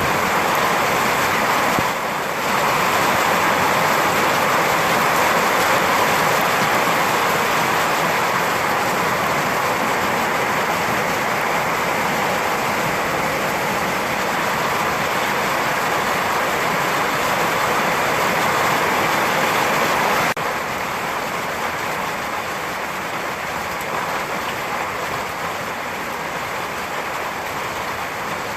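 Heavy rain falling as a steady, even hiss, with no thunder. It dips briefly about two seconds in and settles a little quieter about twenty seconds in.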